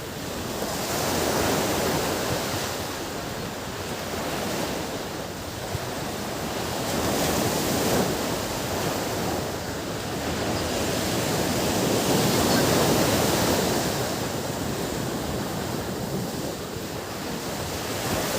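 Ocean surf: waves breaking and washing up the shore, the rush swelling and easing off about every five or six seconds.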